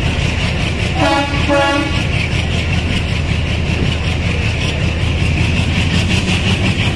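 Passenger train rolling slowly out of the station, heard from the coach doorway as a steady low rumble. About a second in, the train horn gives two short toots.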